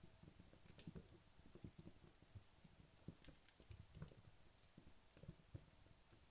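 Burning wood logs in a fireplace crackling faintly, with scattered small, irregular pops and ticks.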